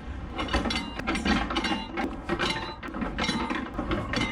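Tractor-trailer rig's diesel engine running low and steady, with irregular metallic clinks and rattles on top.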